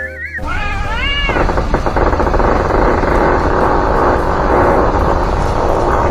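A cat meowing: a wavering, rising-and-falling call about half a second in, followed by a long, loud, rough noisy stretch that cuts off suddenly.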